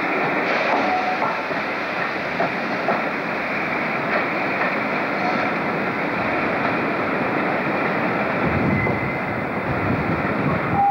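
Loco-hauled passenger coaches rolling out over the station trackwork, wheels rumbling steadily with scattered clicks over rail joints and points.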